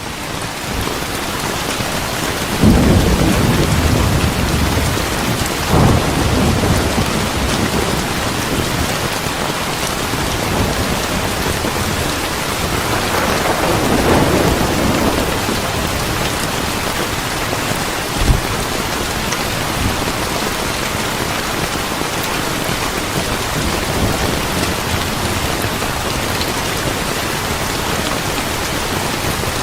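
Steady heavy rain with thunder rumbling through it, swelling loudest about three seconds in and again around six and fourteen seconds. A single short sharp knock comes about eighteen seconds in.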